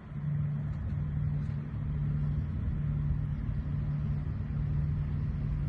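An engine running steadily at idle, a low even hum that keeps one pitch throughout.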